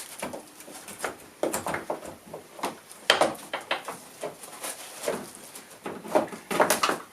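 Irregular knocks, clunks and scraping as the windscreen-wiper mechanism's frame is worked into place under the car's bodywork, with the loudest handling noises about three seconds in and again near the end.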